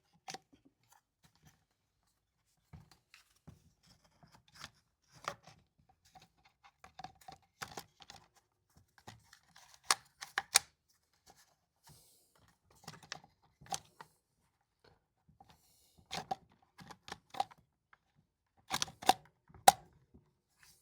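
Irregular plastic clicks and knocks as a replacement recoil starter housing is pushed and worked onto a Stihl MS180c chainsaw, not yet seating over the fuel tank opening. The sharpest clacks come about halfway through and again near the end.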